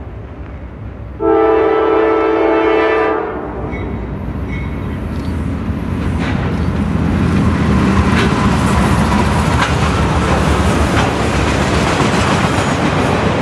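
Diesel freight locomotive's air horn sounds one long blast about a second in. Then the locomotives pass and a long string of autorack cars rolls by, its wheels clacking over the rail joints with growing noise.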